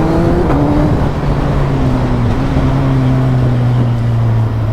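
Suzuki Hayabusa's inline-four with IXIL headers and Yoshimura end cans, running under way at steady revs. The note rises briefly, drops about half a second in, then holds steady.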